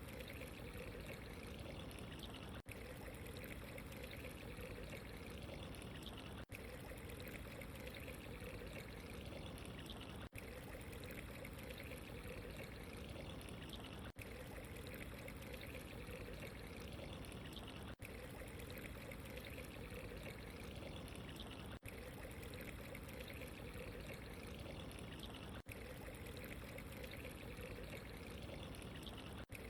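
Steady running, trickling water, faint and even, with a very brief dip in the sound about every four seconds.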